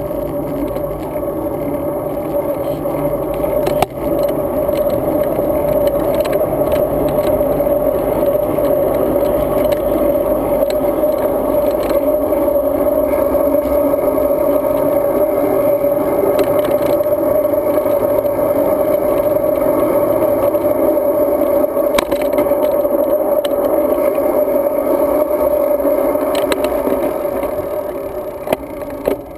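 Road bike ride heard through a GoPro on the bike: a steady rolling drone of tyres and wind, with scattered small clicks and rattles from bumps.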